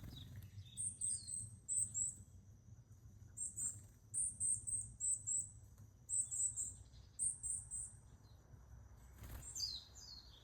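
Varied tits calling: short, very high, thin notes in quick runs of two to four, repeated every second or so, with a few falling notes near the end.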